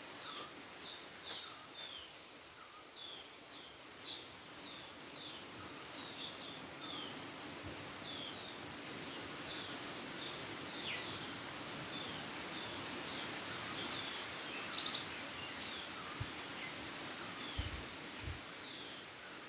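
A bird repeats short, falling chirps about twice a second over a steady background hiss. A few soft low thumps come near the end.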